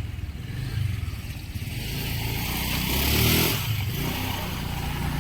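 A motor vehicle passes close by. Its engine and tyre noise swell to a peak about three seconds in, the engine note falling in pitch as it goes past, over a steady low engine rumble.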